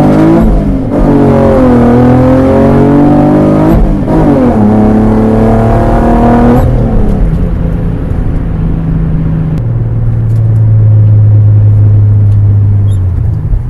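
2010 Camaro V6 with long-tube headers, cat delete and race mufflers accelerating hard. The engine note climbs and drops back twice at upshifts. About halfway through it falls to a steady lower note as the car settles to a cruise.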